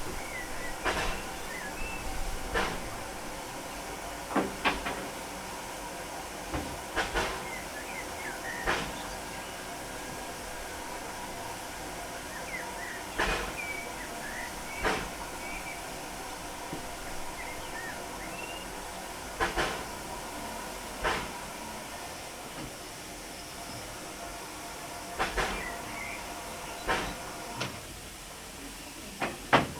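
Vale of Rheidol narrow-gauge steam locomotive with a steady steam hiss and sharp clicks or knocks every second or two, often in pairs.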